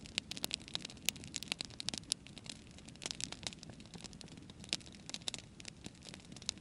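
Wood campfire burning, crackling with many sharp irregular pops over a low steady rumble.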